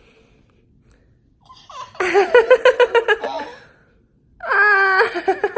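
Toddler laughing: a burst of rapid high-pitched giggles about two seconds in, then a longer held high-pitched squeal near the end.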